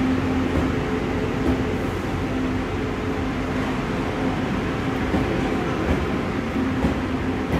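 A passenger train running, giving a steady running noise with a low steady hum that fades in and out.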